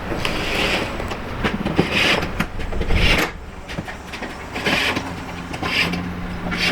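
Road and tyre noise inside the cabin of a moving car, with irregular thumps about once a second as the tyres hit bumps and joints in the road; a steady low hum comes in near the end.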